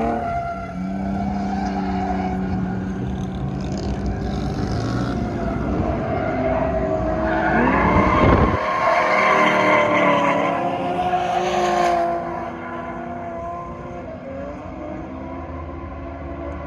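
Drift car engines revving on track, the pitch climbing and dropping with each throttle stab. The sound builds to its loudest about 7 to 12 seconds in as a car revs past, then falls back to a quieter, steady engine drone.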